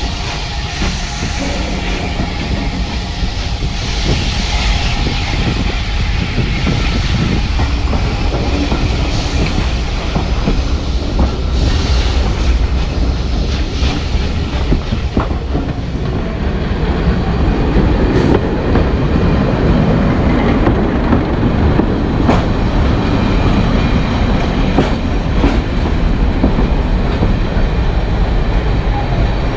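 A steam-hauled train of passenger coaches pulling out and rolling past, its wheels clicking over the rail joints. In the second half a diesel multiple unit's engine runs with a low, steady rumble.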